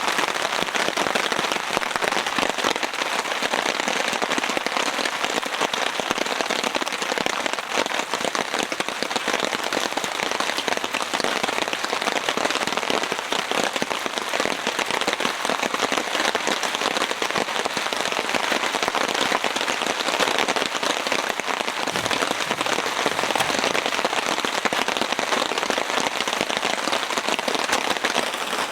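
Heavy rain drumming steadily on a tarp overhead, a dense, even hiss of countless drops.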